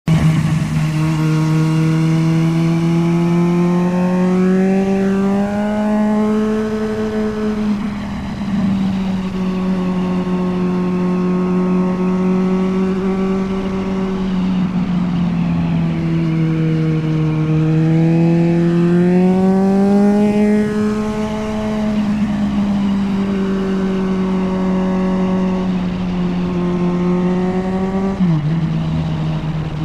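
Kawasaki Z900's inline-four engine running on the move at a steady mid pitch, rising twice as the throttle opens and settling back, with a quick drop in pitch near the end.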